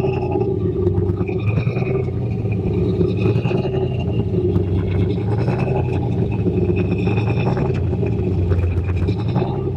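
Turbocharged 351 Windsor V8 running steadily at an even, low engine speed, a loud, deep exhaust rumble with no revving.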